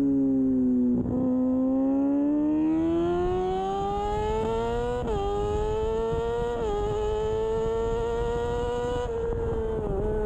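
Onboard sound of a 2013 Kawasaki Ninja 636's inline-four engine at racing speed: the note falls, breaks briefly about a second in, then climbs hard through the revs. It drops quickly twice as the rider upshifts, about five and six and a half seconds in, then holds high, over a steady rush of wind noise.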